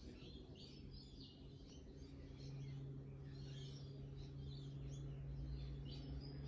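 Faint bird chirping, short high calls repeating irregularly, over a steady low hum that grows louder about two and a half seconds in.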